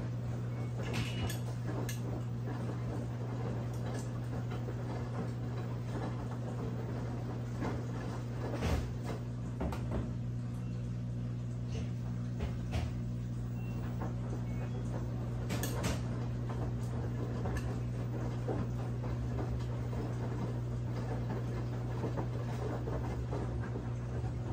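Brastemp 17 kg washing machine running mid-cycle: a steady motor hum with scattered light clicks and knocks from inside the drum.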